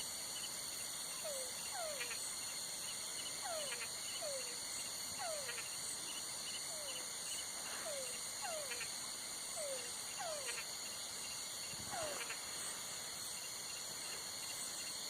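Night chorus of crickets or other insects trilling steadily and high. Over it a frog gives short falling calls, irregularly, about once a second.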